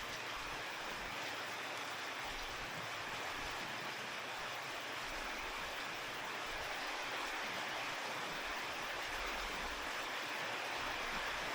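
Steady rain falling, an even hiss with no distinct drops or thunder, growing slightly louder near the end.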